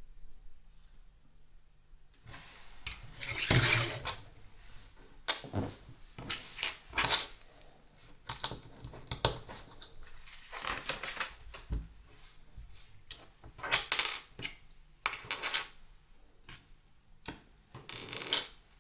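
Small plastic LEGO pieces clicking and clattering as they are handled, with irregular sharp clicks and short rattling bursts, including a longer rustling rattle about two seconds in.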